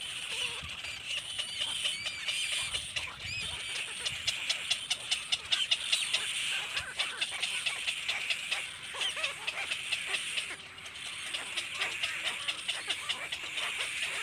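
Baby birds calling: a continuous high-pitched chatter of overlapping cheeps, with runs of rapid ticking calls in the middle and again near the end.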